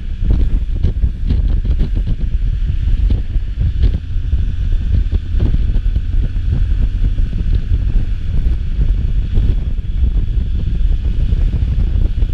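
Wind buffeting the microphone: a loud, fluttering low rumble that does not let up.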